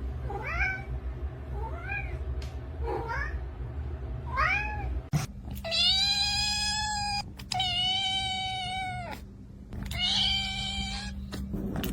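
Cat meowing: four short meows that rise and fall in pitch, then three longer, drawn-out meows held on a steady pitch.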